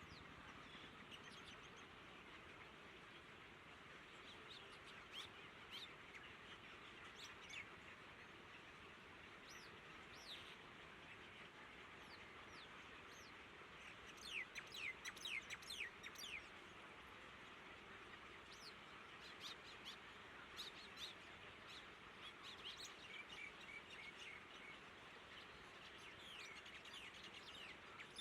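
Small birds chirping: short, quick falling chirps, scattered at first, with a rapid run of them about halfway through and more near the end, over a faint steady hiss.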